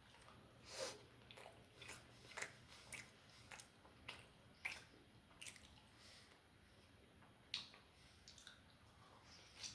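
Close-miked eating sounds: a person chewing, with irregular wet smacks and clicks of the mouth, a few louder than the rest.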